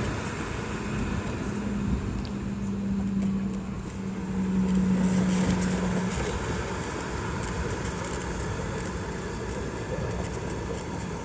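Steady engine and cabin rumble of a Qantas Boeing 717 with its Rolls-Royce BR715 engines, running evenly, with a low hum that swells for a few seconds and then fades back.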